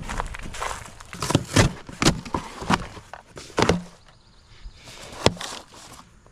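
A run of irregular knocks and clicks, about seven of them and loudest in the first four seconds, with a single sharp one about five seconds in: tools and metal parts being handled during work on a truck's air compressor.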